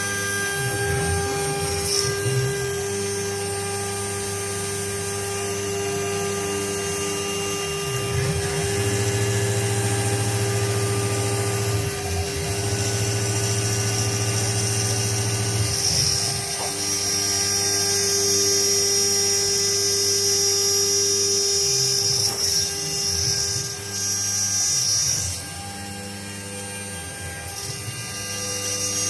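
A machine's electric motor running steadily with a constant whine, its low hum swelling and easing as the load changes; a high-pitched whine joins for several seconds past the middle, and the level drops briefly near the end.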